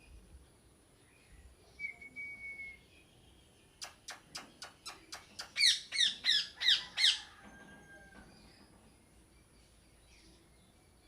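Parrot calls: a short whistle, then a quick run of clicks speeding into five loud, harsh squawks about a third of a second apart. Other birds chirp faintly in the background.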